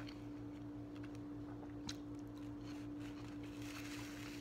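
Faint chewing of a McRib sandwich, with soft mouth noises and one small click about two seconds in, over a steady low hum.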